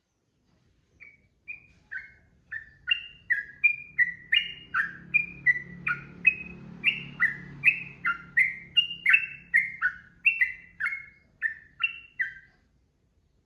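Sooty-headed bulbul (trucukan) singing a long run of short whistled notes, sparse at first, then about three a second, stopping just before the end.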